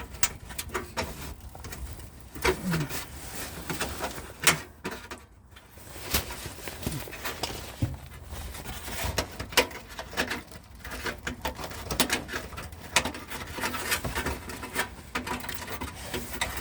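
Irregular metal clicks and knocks of hand tools working under a car as a loose exhaust heat shield is fastened back in place, with one sharper knock about four and a half seconds in.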